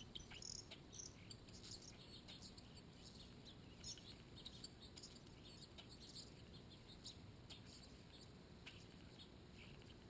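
Faint, scattered high-pitched chirps of small birds, short and irregular, over a quiet outdoor background.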